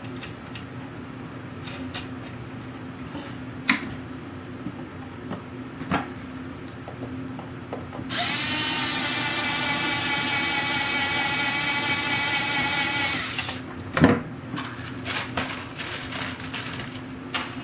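Small cordless drill running at a steady pitch for about five seconds, starting about eight seconds in. Scattered clicks and knocks of hardware being handled come before and after it, the loudest knock just after the drill stops.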